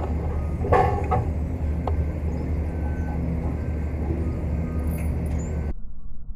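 A steady low mechanical hum, like an engine or motor running, with a short voice-like sound about a second in. Near the end it cuts abruptly to a thinner, muffled sound.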